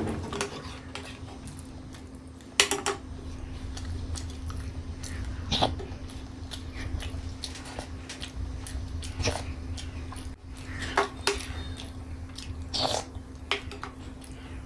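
Close-miked eating sounds: chewing, with short sharp mouth clicks or bites every couple of seconds over a steady low hum.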